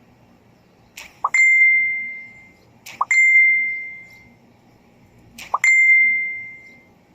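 Three bell-like dings about two seconds apart. Each opens with a click and a short rising chirp, then rings with a clear tone that fades over about a second.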